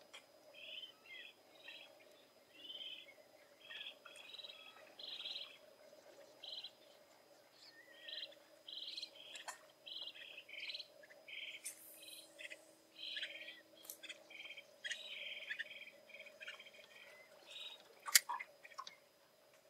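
Birds chirping and calling in many short notes, coming in clusters throughout, with one sharp click about a second before the end.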